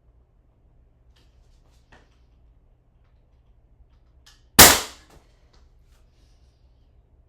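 Ramset powder-actuated nail gun firing once: a single sharp bang about four and a half seconds in that dies away within half a second, with a few faint clicks before it.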